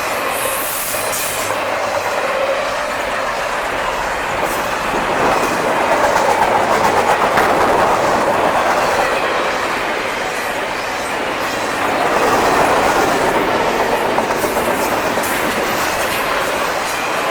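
A long CSX intermodal freight train's double-stack container cars rolling past at speed, wheels clacking steadily over the rail joints, swelling louder twice.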